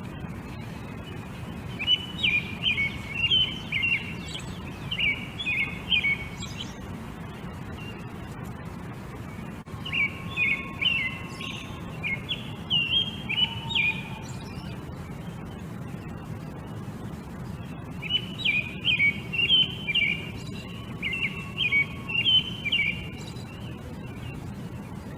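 A songbird singing in three bouts of quick, repeated high notes, each bout a few seconds long with pauses between, over a steady low rumble.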